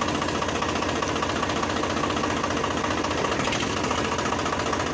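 Eicher tractor's diesel engine idling steadily in neutral, with an even, rapid firing beat.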